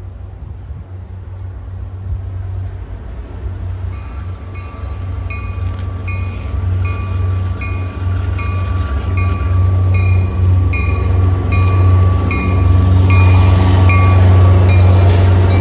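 An MBTA GP40MC diesel locomotive approaching with its bell ringing, about one and a half strikes a second, starting about four seconds in. Under the bell, the engine and wheels rumble, growing steadily louder as the train draws near.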